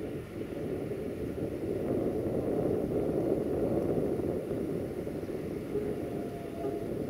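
Distant diesel-hauled train running across the valley, a steady rumble.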